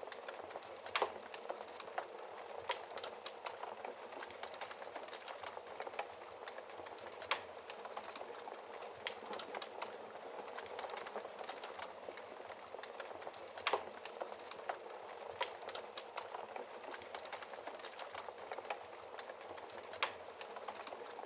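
Wood fire burning in a fireplace, crackling: a steady hiss of burning wood full of small crackles, with a few sharper, louder pops spread through it.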